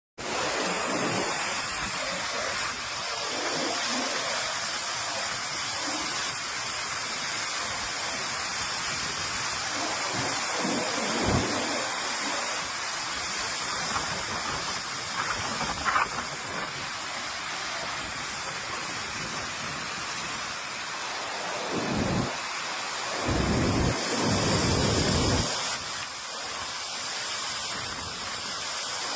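Heavy rain falling steadily as a continuous hiss, with a few brief low rumbles about halfway through and again near the end.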